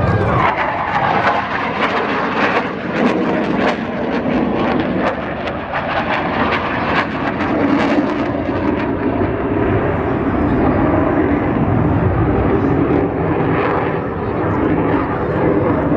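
Jet engine noise from KAI T-50B aerobatic display jets flying past: a loud, dense rushing noise that holds fairly steady and settles into a lower, smoother sound in the second half.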